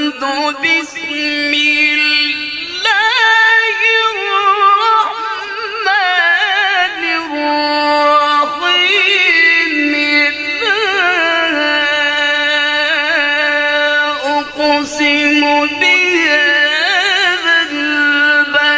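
Quran recitation in a high-pitched voice, one syllable stretched over long held notes with rapid wavering ornaments and slow glides between pitches, sung nearly without a break for breath.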